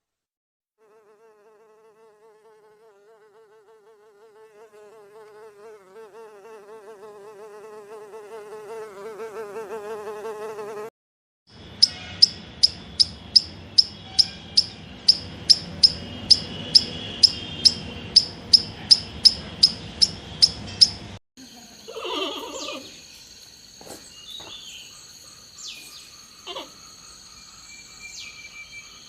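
A flying insect's buzz, warbling and growing louder, cut off after about ten seconds. Next comes a sharp high chirp repeated about two to three times a second over a noisy background, then scattered chirps and high steady whistles.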